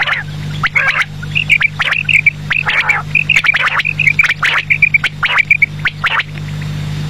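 Quail (batair) calling: quick runs of short high chirping notes mixed with harsh rasping calls, which stop about six seconds in. A steady low hum runs underneath.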